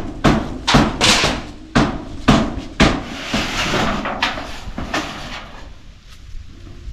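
Hammer blows knocking at a structure under demolition, about two a second, with a longer rushing noise about three seconds in; the blows thin out near the end.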